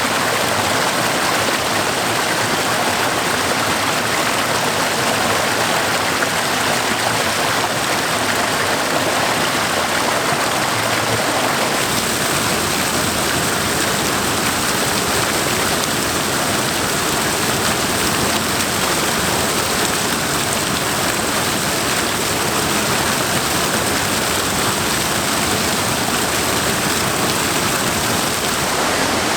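Waterfall and river water rushing steadily over rocks, a constant even rush of falling water. Its tone shifts slightly about twelve seconds in.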